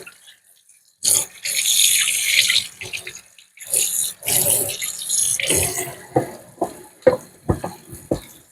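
Kitchen tap running into a sink as hands are washed, the water coming in two stretches, followed near the end by a quick run of short knocks and clatters.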